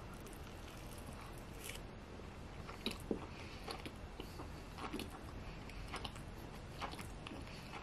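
A person chewing a mouthful of sushi roll close to the microphone, with scattered small crunches and clicks. The loudest comes about three seconds in.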